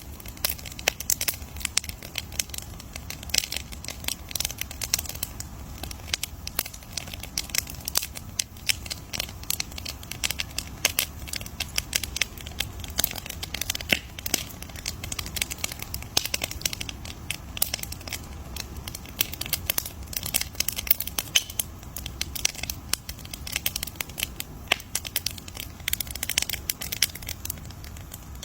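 Wood campfire crackling steadily, with dense, irregular sharp pops and snaps over a faint low rumble.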